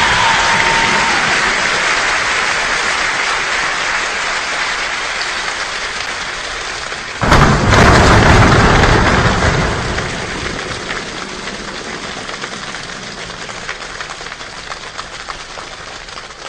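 Steady rain falling, gradually growing quieter, with a sudden crack of thunder about seven seconds in that rumbles away over the next few seconds. Individual drops ticking stand out near the end.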